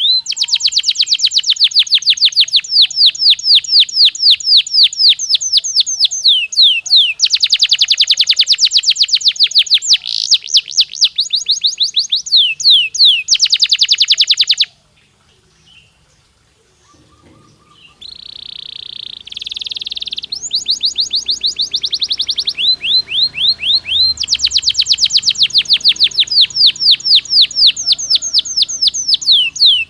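Domestic canary singing: long, rapid rolls of repeated down-slurred notes, several a second. The song breaks off about halfway for a few seconds, returns with a short buzzy note, then goes back into fast rolls.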